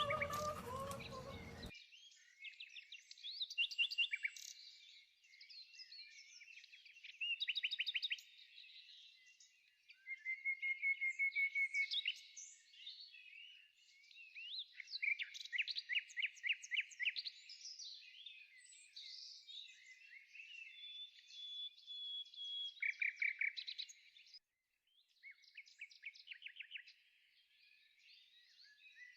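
Songbirds singing: a dense chorus of rapid trills and chirps, with a brief drop-out near the end. In the first second or two another, fuller sound is also heard, and it cuts off suddenly.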